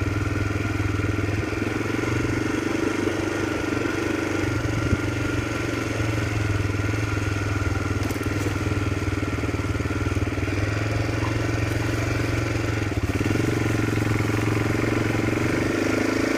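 Motorcycle engine running steadily under way, its note shifting briefly about 13 seconds in.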